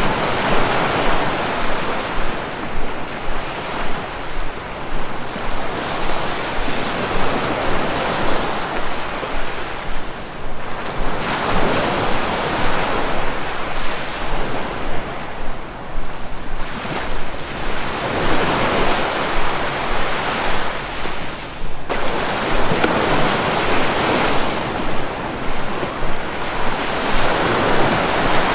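Sea waves washing onto the shore: a continuous rushing surf that swells and eases every several seconds as each wave breaks.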